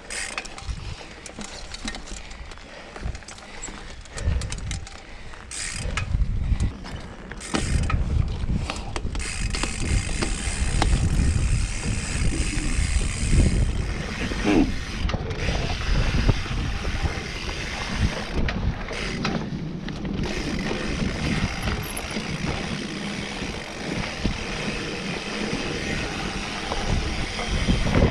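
Mountain bike ridden over a dirt trail: chain and parts rattling over the bumps, with tyre noise, growing louder about eight seconds in.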